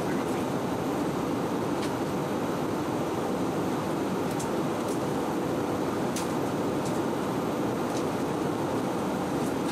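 Steady in-flight cabin noise of an Airbus A319: an even rush of engine and airflow noise, with a few faint ticks scattered through it.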